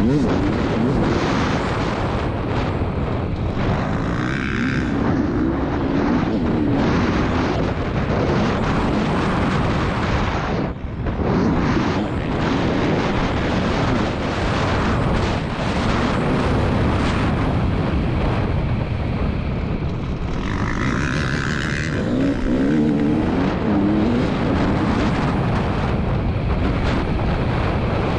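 KTM 300 TPI two-stroke dirt-bike engine being ridden hard, its pitch rising and falling with the throttle, with a brief dip about eleven seconds in.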